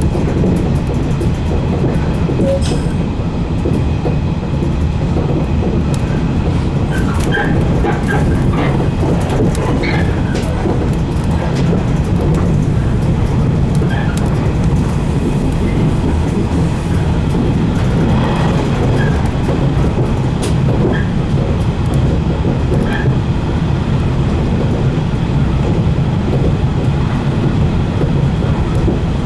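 A 115 series electric train running, heard from on board: a steady low rumble of wheels and running gear, with a faint steady whine above it and scattered clicks from the track.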